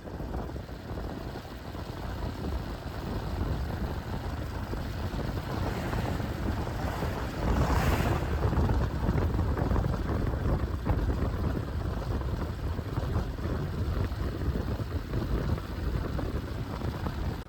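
Wind buffeting the microphone while riding a motorcycle at speed, with road and engine noise underneath. It builds gradually, with a louder whoosh about eight seconds in.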